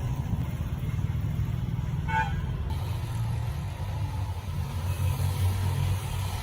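A steady low rumble, with a short pitched toot about two seconds in.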